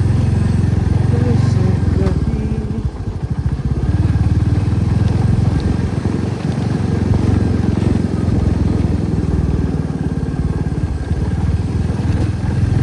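Motorcycle engine running at low speed, with the throttle eased off briefly about three seconds in before it picks up again.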